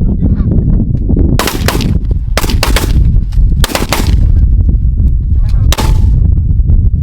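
A volley of shotgun fire at geese: about a dozen sharp shots from several guns in quick clusters over some four seconds, beginning about a second and a half in. Goose honking and a heavy low wind rumble on the microphone go on under it.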